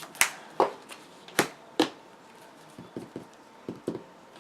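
Trading cards being handled and tapped down on a table: four sharp clicks in the first two seconds, then a few softer taps.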